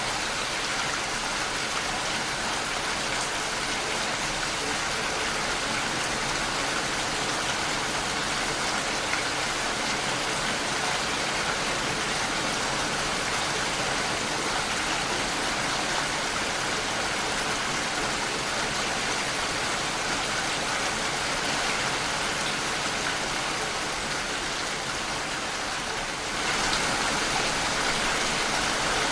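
Steady rain pattering against window glass, an even unbroken hiss of drops, a little louder over the last few seconds.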